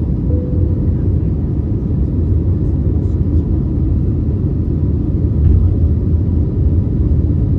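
Steady, loud low rumble inside the cabin of an Airbus A321neo airliner, from its engines and the airflow.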